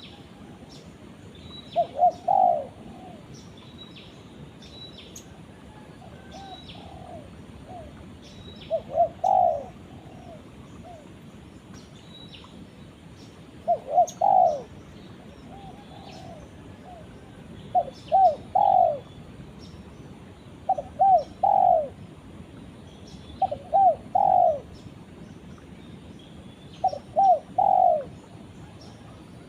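Spotted dove (tekukur) cooing: short phrases of three or four coos, repeated every three to four seconds. Faint high chirps from small birds sound in between.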